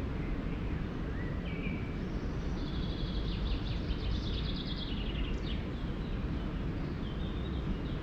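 A songbird sings a rapid trill of quick repeated notes lasting a few seconds, with short chirps before it and another brief phrase near the end, over a steady low rumble of outdoor background noise.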